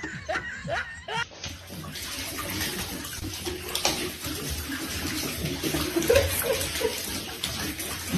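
Running or splashing water as a steady rushing hiss, starting about a second in after a few short rising squeaks.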